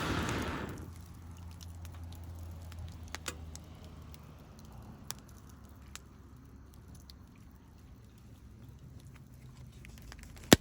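Campfire crackling, with a few scattered pops and one sharp, loud pop near the end. A rushing noise at the start dies away within the first second.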